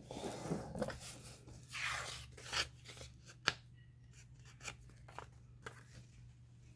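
Paper being handled and shuffled at a craft table: soft rustling and crinkling with scattered small clicks and taps, the sharpest click about three and a half seconds in.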